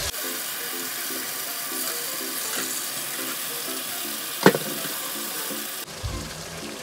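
Chicken and spice masala sizzling as they fry in a wok, stirred with a spatula, with a sharp knock about four and a half seconds in. Quiet background music with a steady beat runs underneath.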